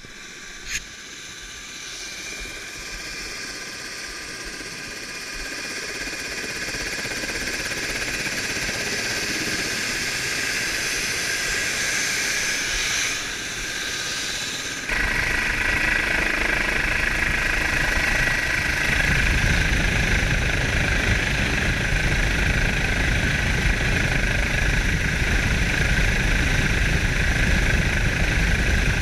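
Steady engine noise that builds gradually, then about halfway through cuts to a louder run with a heavy low rumble.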